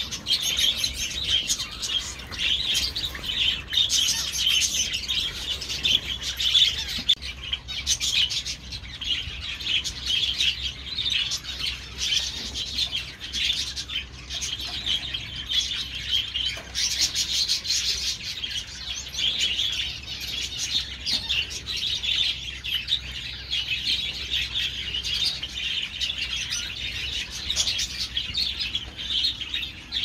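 Many small aviary birds chirping and twittering at once: a dense, continuous chatter of short high notes with no pause.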